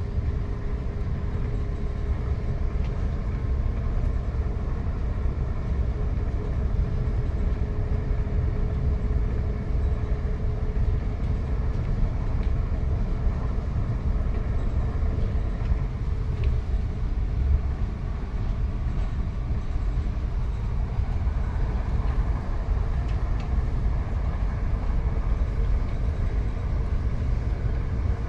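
Passenger train running fast, heard from inside the carriage: a steady low rumble, with a faint steady hum that fades out about ten seconds in.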